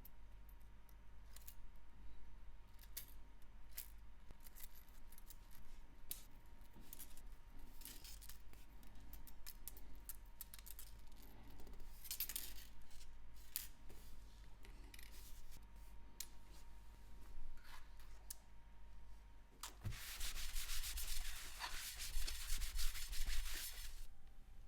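Small watchmaker's tools clicking and scraping lightly against a wristwatch's metal parts during disassembly and cleaning. About four seconds of louder, continuous rubbing or brushing comes near the end.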